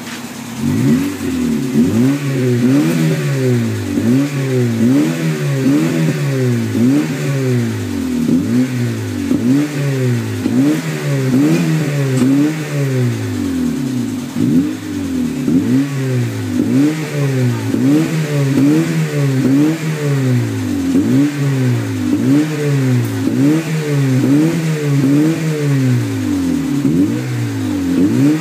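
Eighth-generation Honda Accord with a full aftermarket muffler and exhaust system, its engine revved over and over in quick throttle blips from idle. The pitch rises and falls about once a second, starting about a second in.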